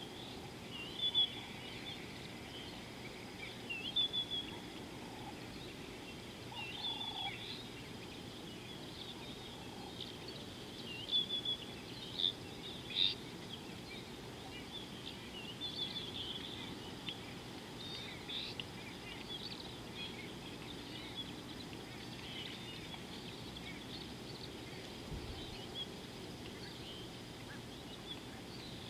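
Birds chirping and calling in short, high notes scattered throughout, a few louder calls in the first half, over a steady low background hum.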